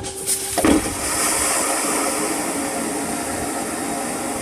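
Airplane vacuum toilet flushing: a click, then a loud rushing whoosh of about four seconds that cuts off suddenly.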